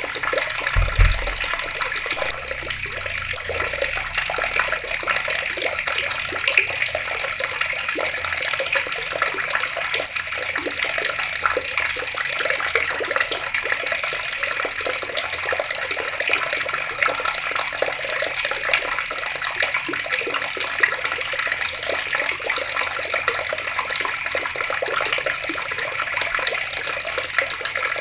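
Water flowing steadily from an outdoor tap, with an even rushing and splashing. There is a brief low thump about a second in.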